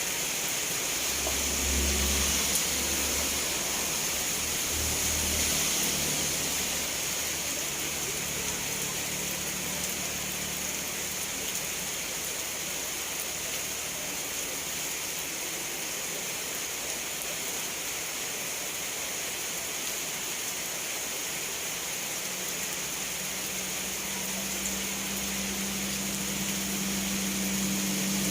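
Steady rainfall, an even hiss of heavy rain. A low hum lies under it at the start, and a low engine-like drone swells up near the end.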